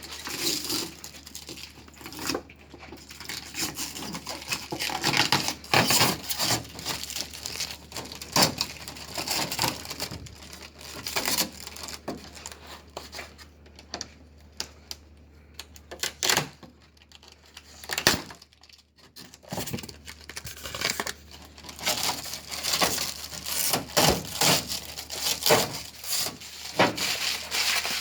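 Packaging being handled and torn open: irregular rustling with sharp clicks, quieter for a few seconds in the middle.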